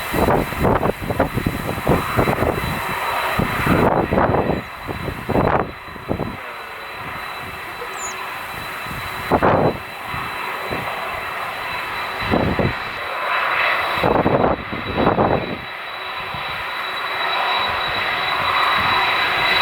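Boeing 747-400 freighter's jet engines running with a steady high whine, broken by irregular gusts of wind buffeting the microphone. The engine sound grows louder over the last few seconds.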